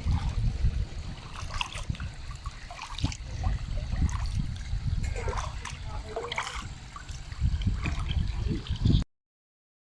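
Water splashing and trickling, as from a man-made waterfall spilling into a small pool, over a steady low rumble. The sound cuts off suddenly near the end.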